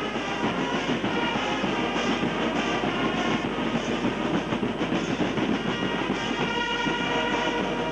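Brass band playing sustained chords, with a dense noisy background underneath.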